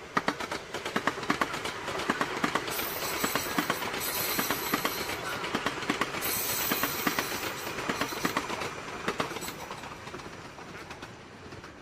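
A train running on the rails: many quick wheel clicks over a steady rushing noise, with a high hiss that rises twice, in the middle of the stretch. The sound cuts off abruptly just after.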